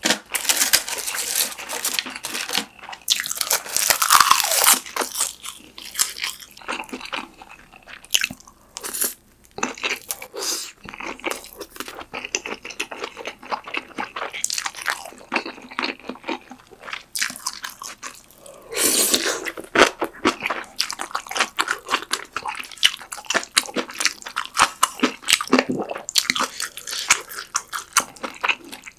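Close-miked chewing and crunching of mouthfuls of pork kimchi stew with kimchi and ramen noodles, quick irregular wet bites throughout, louder for a few seconds at the start and again about two-thirds of the way in.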